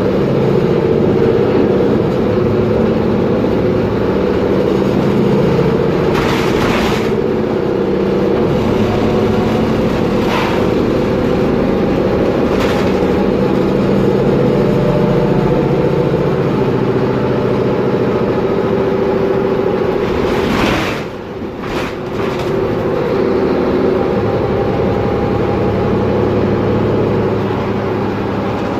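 Mercedes-Benz Conecto G articulated city bus's OM457LA turbo-diesel running under way, a steady drone with several steady tones. Short bursts of hiss break in a few times, the longest about twenty seconds in, where the level briefly dips.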